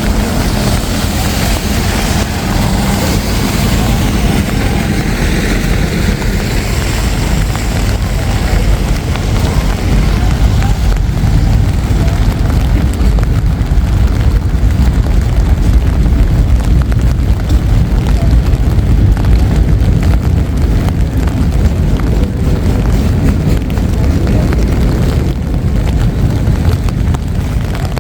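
Wind buffeting the microphone over steady city traffic noise, slightly louder in the middle.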